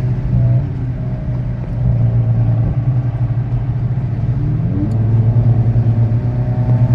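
Car engine and exhaust running steadily on the move, its pitch rising about four and a half seconds in as it accelerates, then holding at the higher note.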